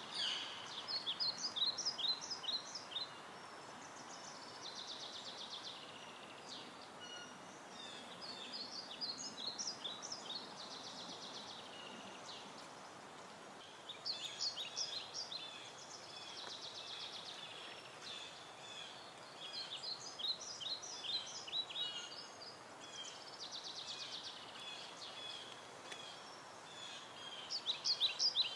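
A songbird singing the same short phrase over and over every few seconds: a buzzy trill followed by a quick run of clipped notes, over a steady background hiss.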